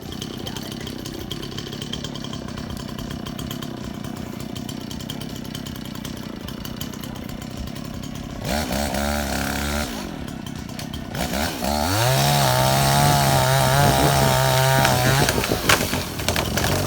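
Dirt bike engine running low and quiet, then revving up about halfway through, held at high revs for a few seconds and easing off near the end.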